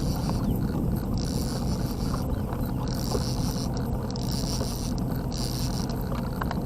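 A small boat's motor running steadily, a constant low hum with a hiss that comes and goes.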